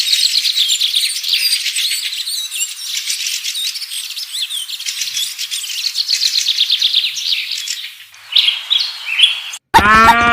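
Many birds chirping and twittering, dense overlapping quick chirps with only high sounds and no low end. Near the end the chirping gives way to a short different sound, cuts off abruptly, and a brief pitched voice-like sound begins.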